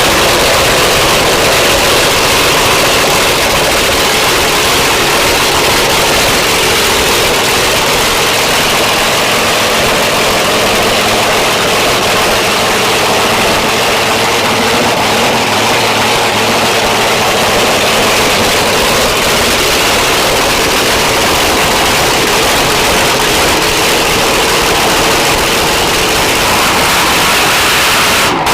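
Black Gold drag race car's engine running at a steady idle, very loud.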